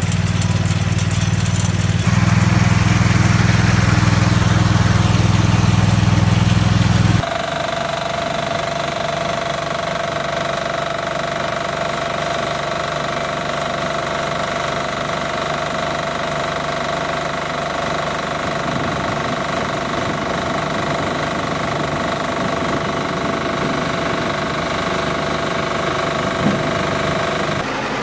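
Tractor engine and hay baler running steadily, with abrupt changes in the machine sound about two and seven seconds in. The first part is a deep engine drone; the rest is a quieter, even machine hum with a steady whine, and a single light tick near the end.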